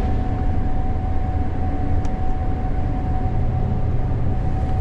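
Gleaner S98 combine running steadily, heard from inside the cab: a heavy low engine and machinery drone with a steady whine held over it.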